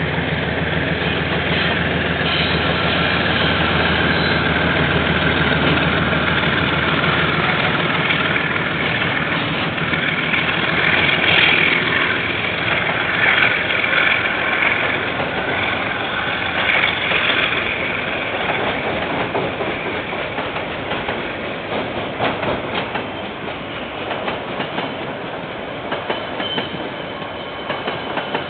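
A KiwiRail train passing: a diesel locomotive's engine hum for the first several seconds, then the wagons rolling by with wheels clattering over the rail joints and some squealing, slowly fading toward the end.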